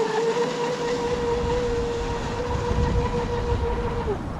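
RC flatbottom drag boat's motor running flat out at a steady high whine over the hiss of the hull and spray, then dropping away about four seconds in as the throttle comes off.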